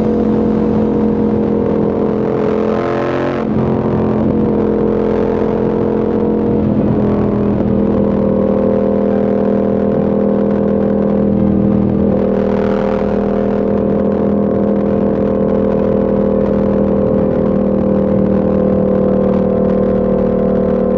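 Yamaha MT-07's parallel-twin engine running at a steady cruise under the rider, its pitch shifting about three and a half, seven and twelve seconds in as engine speed changes.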